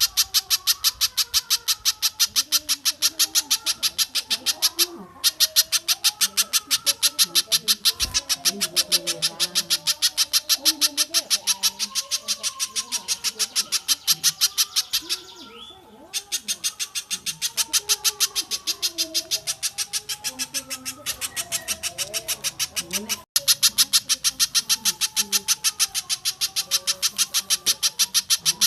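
Looped bird-song training recording of spiderhunter and stork-billed kingfisher calls: a fast, even run of sharp high notes, about three or four a second. The run breaks off briefly about five seconds in, around the middle and about two-thirds through, over quieter, varied calls lower down.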